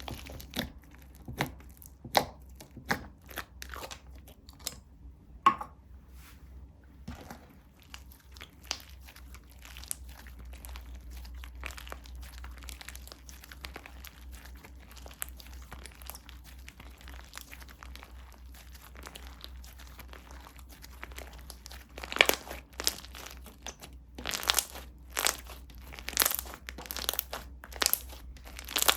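Slime being handled, stretched and pressed by hand: a run of small sticky crackles and clicks, with a cluster of louder sharp pops starting a little over two-thirds of the way in.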